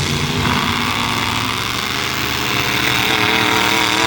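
Demolition derby trucks' engines running loudly. Their pitch wavers up and down in the second half as they rev.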